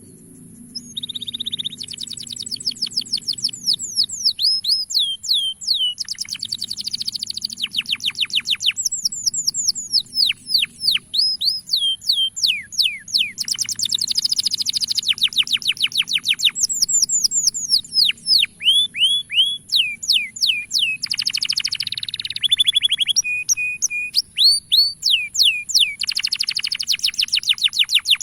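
Male domestic canary singing: fast trills of repeated downward-sweeping notes, the trill type changing every few seconds, over a steady high hiss.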